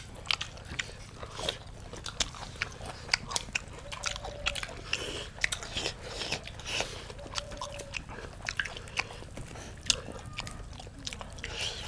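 Several people chewing food close to the microphone, with many sharp clicks and smacks coming at irregular moments.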